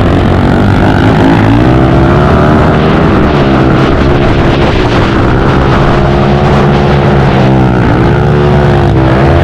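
Pit bike engines running loud and steady. The pitch dips and climbs back up about a second and a half in and again near eight seconds in, as the throttle is rolled off and opened again.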